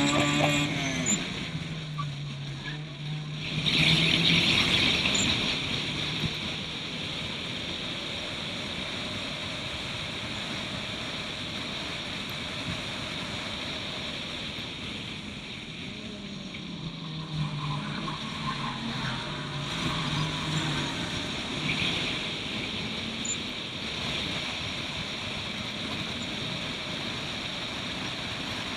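Turbocharged Suzuki Swift race car's engine running hard around the circuit. Its note climbs at the start and again about two-thirds through, holding steady in between, under a constant rush of noise. There is a louder burst of hiss about four seconds in.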